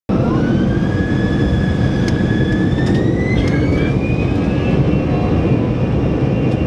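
Jet airliner engines running with a steady heavy rush and a whine that climbs in pitch over the first few seconds, then holds level, as the engines spool up.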